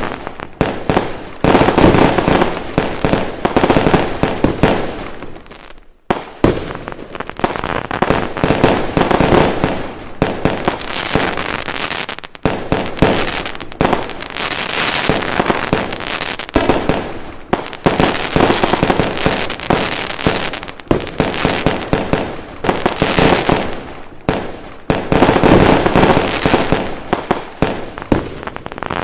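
A fireworks display going off: a dense, continuous run of rapid bangs and crackling with scarcely a pause.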